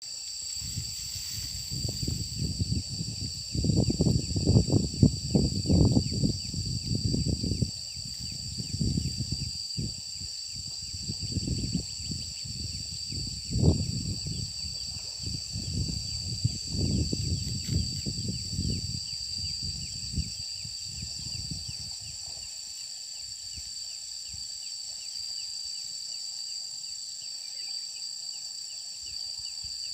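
A steady, high-pitched chorus of insects trilling. For about the first twenty seconds an irregular low rumbling noise comes and goes beneath it, loudest around four to six seconds in.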